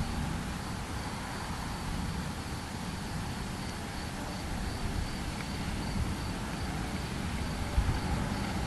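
Storm-night outdoor ambience: a steady low rumbling noise with a faint continuous high chirring of crickets, and one short sharp knock near the end.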